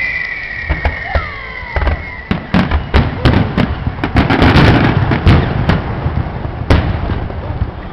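Fireworks going off: a high whistle fades out in the first two seconds. Then comes a rapid run of sharp bangs and crackles, densest about four to five seconds in, with one last single bang near the end.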